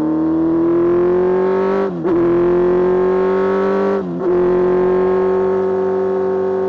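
Kawasaki Z1000 inline-four motorcycle engine pulling under load on a ride, its note climbing slowly, with two brief breaks about two and four seconds in as gears are changed.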